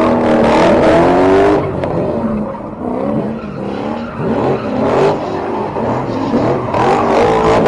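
Car engines revving, their pitch rising and falling again and again, easing off in the middle and picking up again near the end.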